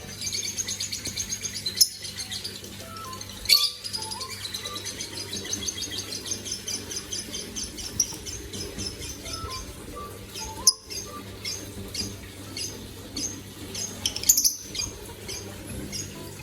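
Small pet bird chirping in fast, continuous runs of high chirps. Four sharp clicks stand out, louder than the chirping.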